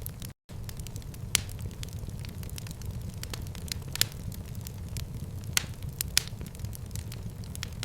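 Wood fire burning in a fireplace: a steady low rumble with scattered crackles and a few sharper pops. The sound drops out for a split second near the start.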